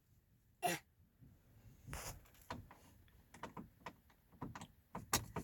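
Scattered light clicks and knocks, irregular and a few per second, heaviest near the middle and near the end.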